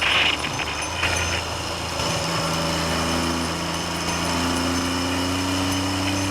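Triumph Trident three-cylinder motorcycle engine running while riding, its note climbing slowly in the second half, under heavy wind noise on the microphone.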